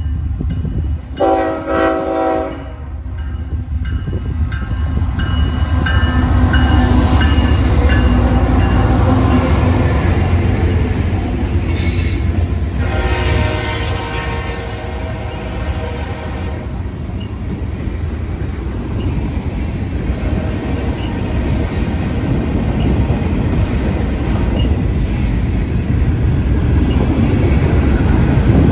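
CSX mixed freight train passing: the diesel locomotive's horn sounds a short blast about a second in and a longer blast near the middle. Underneath, the low rumble of the locomotive and the rolling clatter of freight cars grow louder as the train goes by and keep on steadily.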